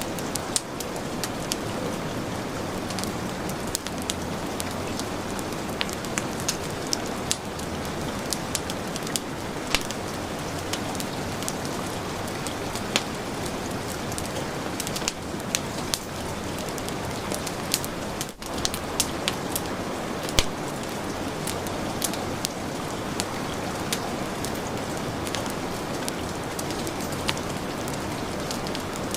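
Steady heavy rain mixed with a wood fire crackling, with frequent sharp pops and snaps over the rain. About eighteen seconds in, the sound briefly dips.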